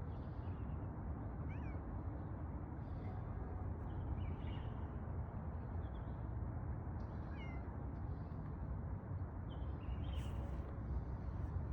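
A cat meowing faintly several times, in short high calls, over a steady low rumble.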